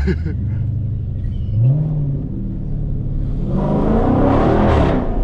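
Dodge Scat Pack's 6.4-litre HEMI V8 with its mid mufflers deleted. It runs low and steady, gives a short rev about one and a half seconds in, then accelerates hard from about three and a half seconds in, the exhaust note climbing in pitch and getting louder.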